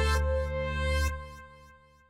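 Synthesizer music with sustained chords and repeated note attacks, stopping about a second in and then dying away as the final chord's tail fades out.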